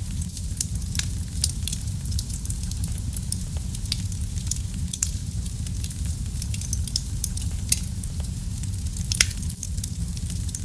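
Wood fire burning in a fireplace: a steady low rumble of flames with frequent irregular pops and crackles, two sharper snaps near the end.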